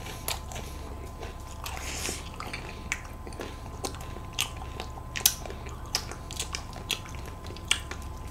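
Close-miked biting and chewing of an ice cream cone, with a scattered run of short, crisp crunches as the cone is chewed.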